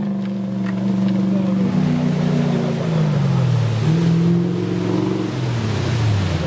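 Off-road trophy vehicle's engine running and revving up and down as it drives through a shallow river, with rushing, splashing water under it. The engine note drops about two seconds in and again near the end.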